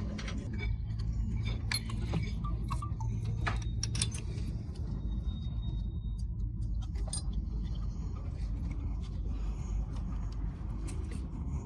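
Scattered light metallic clinks and taps of tools and engine parts being handled, over a steady low rumble.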